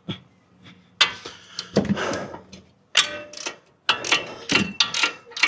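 Socket wrench working on the brake caliper bolts: bursts of ratchet clicking and metal clanks, four or five times, with a faint metallic ring in the later ones.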